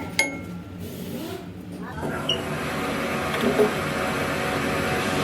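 A metal part clinks once near the start, then about two seconds in a motor-driven machine starts up and runs steadily.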